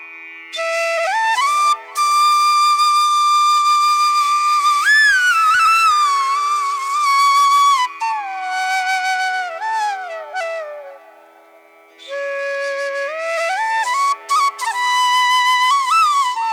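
Background music: a solo flute playing a slow melody with sliding, ornamented notes over a steady low drone, with a short pause about two-thirds of the way through.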